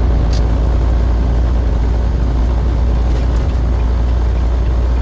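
Steady, deep engine and road rumble of a truck on the move, with a short click about a third of a second in.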